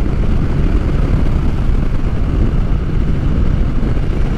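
Motorcycle riding at highway speed: a steady, loud rumble of engine and wind noise.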